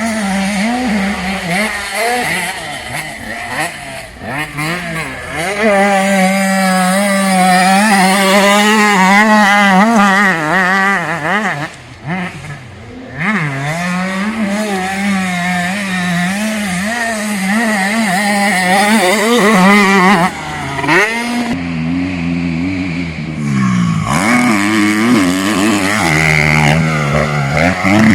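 Motocross bike engines running hard on the track, revving up and down with the throttle and gear changes, the pitch wavering quickly at times. The sound drops briefly about twelve seconds in, then picks up again.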